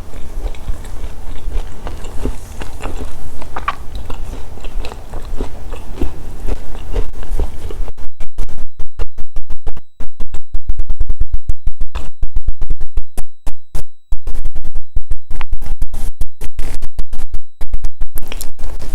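Close-miked chewing and crunching of chocolate snacks through a badly connected microphone, with a steady low hum under it. From about eight seconds in, the sound breaks into a fast run of loud, clipped crackles with brief dropouts, the sign of a loose mic plug.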